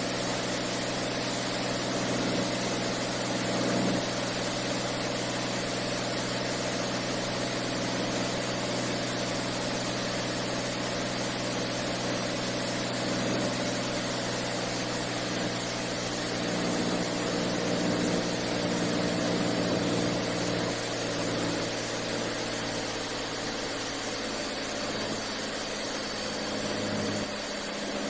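Beechcraft A36 Bonanza's six-cylinder piston engine and propeller heard from the cockpit, running steadily at low approach power with full flaps set. From about two-thirds of the way in, its pitch drops lower and wavers as power comes back.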